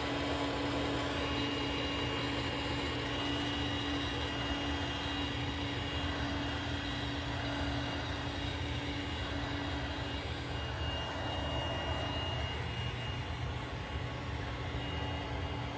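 Roomba Combo 10 Max robot vacuum running on high suction over carpet during its edge-cleaning pass: a steady motor whir and brush noise, with a low hum that fades out about two-thirds of the way through.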